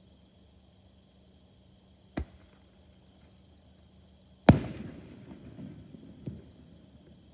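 Aerial fireworks bursting: a sharp crack about two seconds in, then a much louder boom a couple of seconds later that rumbles and crackles away, and a smaller bang near the end. A steady insect trill runs underneath.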